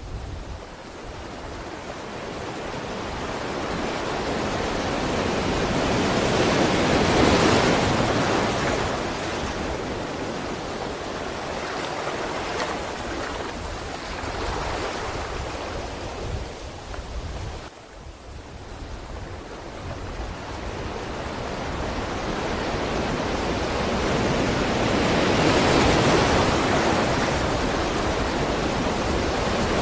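Ocean waves surging onto a shore and washing back, rising and falling slowly, with two big swells about seven seconds in and near the end.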